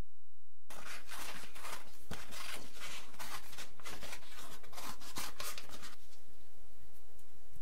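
A run of quick, repeated scratchy strokes of hand work on the material, starting just under a second in and stopping about six seconds in, over a steady low hum.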